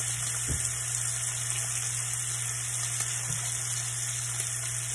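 Food sizzling as it fries in a pan, a steady high hiss.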